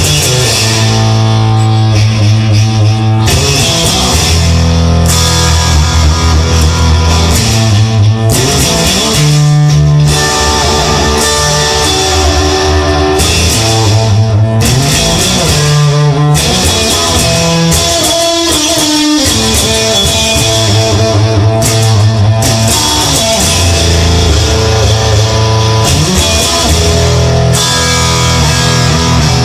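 Instrumental stretch of a rock song: guitars playing over bass and drums, with no singing.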